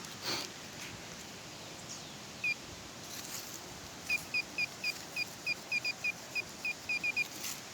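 A bird calling short, high chirps: a single one about two and a half seconds in, then a quick run at about four a second near the end.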